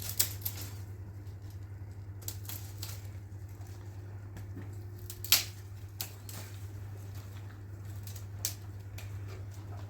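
A washing machine's electric motor running with a steady low hum. Scattered sharp clicks and knocks sound over it, the loudest about five seconds in.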